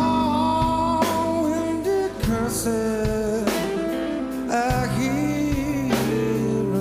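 Live rock band playing a slow ballad, with a male lead singer holding long, bending notes over guitar, bass and drums.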